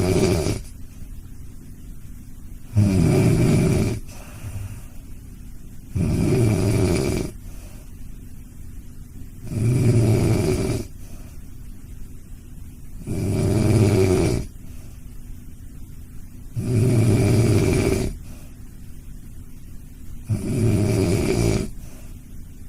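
A dog snoring in a slow, even rhythm: a loud snore about every three and a half seconds, each lasting a little over a second, with quieter gaps between.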